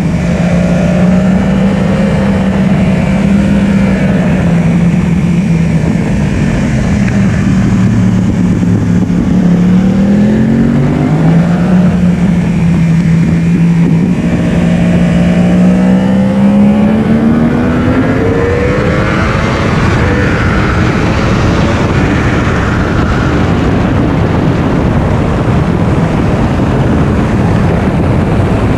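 Yamaha R1 inline-four engine at high revs on track, its note sagging and climbing repeatedly with throttle and gear changes. In the second half it rises steadily under hard acceleration, then blends into a more even rushing noise.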